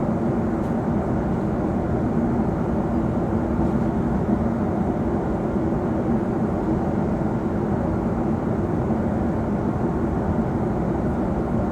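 Steady cabin noise of a Boeing 777-300 airliner: an even rumble and hiss from the engines and airflow, with a faint steady hum, heard from a seat inside the cabin.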